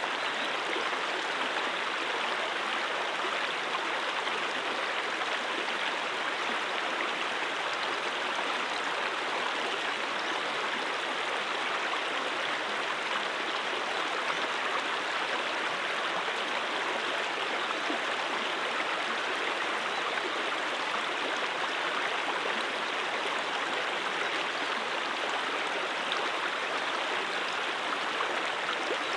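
Brook water flowing over rocks, a steady, even rush of water with no breaks or separate events.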